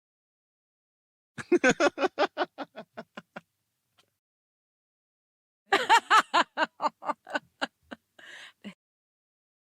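Two separate laughs from a character's laugh sound effect, each a quick run of 'ha' pulses that slows and fades out; the second ends with a short breath in.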